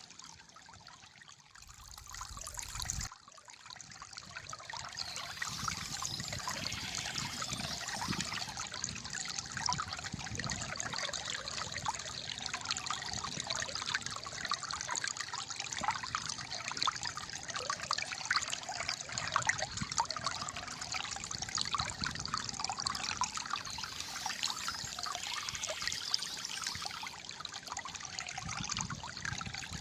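Shallow water flowing and gurgling steadily in a busy trickle. It is quieter for the first few seconds, then turns fuller abruptly about three seconds in.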